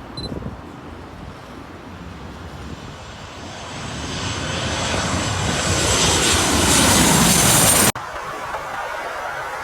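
Airliner's engines passing close by: the engine noise and a high whine swell steadily, with the pitch falling as it goes by, then cut off abruptly about eight seconds in.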